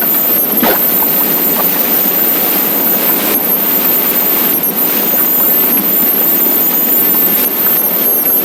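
Steady rush of wind and road noise on a motorcycle riding at speed.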